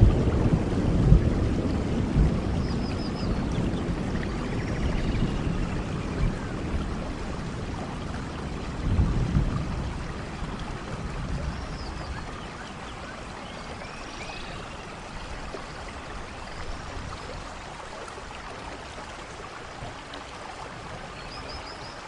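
Steady rain with rolling thunder that fades away over the first dozen seconds, and a second low rumble about nine seconds in. Faint high chirps come through now and then.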